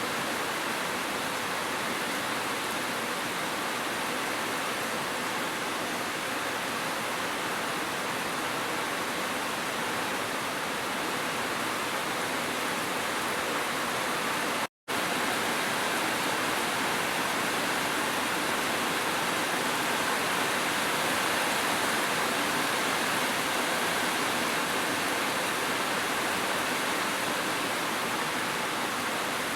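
Steady, even rush of falling water from rain and a waterfall, broken once about halfway through by a split-second drop to silence.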